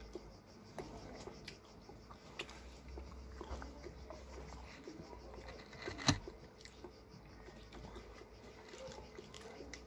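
Faint chewing of a bite of pizza, with small scattered mouth clicks and one sharper click about six seconds in.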